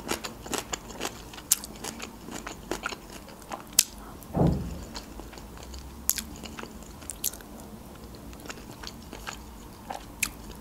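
Close-miked chewing of meat-stuffed bell peppers: irregular wet mouth clicks and smacks. One louder low thud, dropping in pitch, comes about four seconds in.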